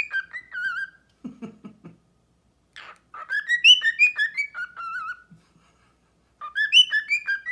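Pet bird whistling a short tune of stepping, warbling notes, repeating the phrase twice more after finishing one at the start, with a brief low chatter in between.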